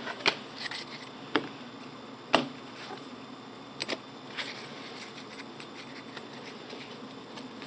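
Trading cards being handled and flipped through: a few light, sharp clicks of card against card in the first half, then only faint handling noise.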